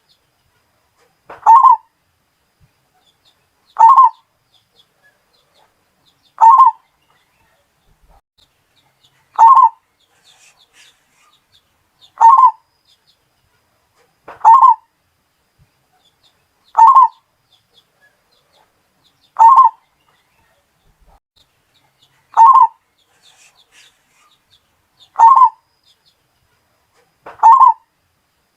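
Zebra dove (Bali perkutut) cooing: a short call repeated at an even pace about every two and a half seconds, eleven times.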